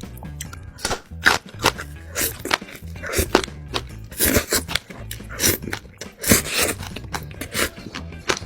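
Close-miked eating sounds: crunchy bites and chewing, making many sharp crunches at irregular intervals, over background music.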